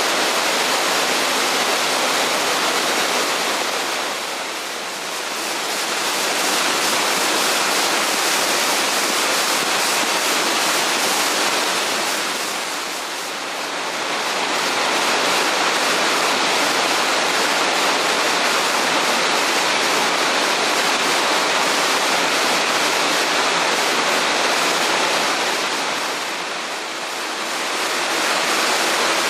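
A waterfall's falling water rushing in a steady, loud, even wash of noise, easing slightly three times for a second or so.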